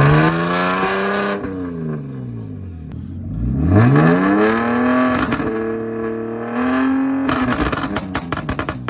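Car engine revved hard: the pitch climbs, drops back, climbs again and holds high for a couple of seconds. When the throttle closes near the end, a rapid string of exhaust pops and crackles follows.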